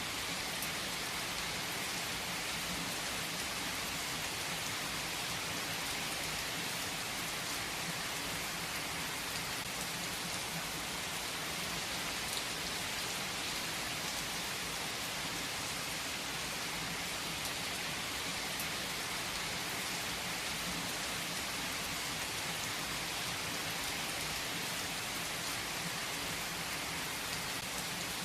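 Steady rain falling and pattering on a surface, a constant hiss with scattered faint drop ticks.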